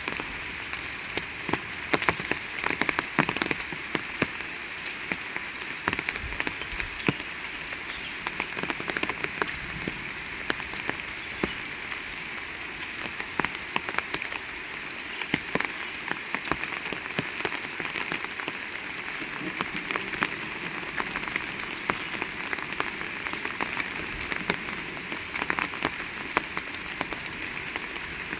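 Heavy rain falling steadily, with a dense, constant patter of individual drops striking close by.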